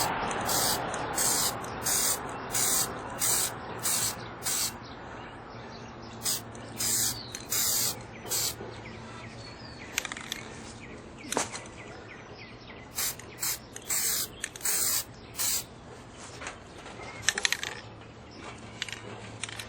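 Aerosol spray can hissing in a series of short bursts, at first evenly spaced about two-thirds of a second apart, then in irregular groups with pauses between.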